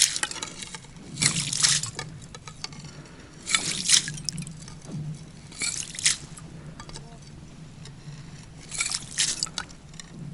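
Slushy ice chips being scooped and sloshed out of an ice-fishing hole with a skimmer, four separate scoops a couple of seconds apart.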